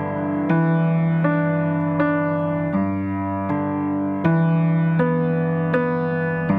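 Background piano music: a slow, gentle piece of chords and single notes struck about one every three-quarters of a second.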